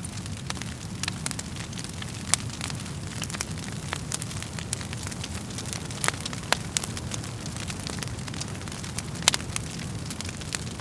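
Wood fire crackling in a fireplace: a steady low rumble of flames with frequent sharp pops and snaps from the burning wood. A few louder pops stand out.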